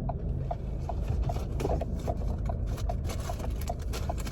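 Car cabin with a steady low road or engine rumble and a light, regular ticking about two to three times a second.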